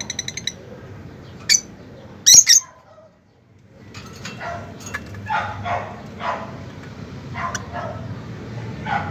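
A series of short bark-like animal calls, one after another, with a quick run of ticks at the start and a sharp loud call about two and a half seconds in.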